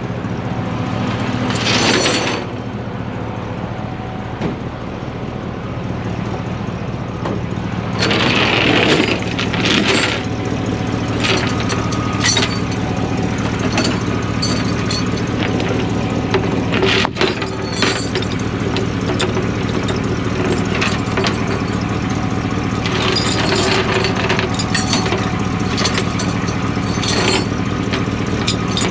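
Heavy truck engine idling steadily, left running in gear, with several short clanks and bursts of noise over it.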